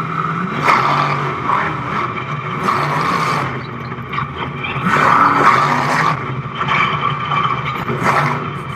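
Monster truck engine running hard, revving up and down in repeated surges.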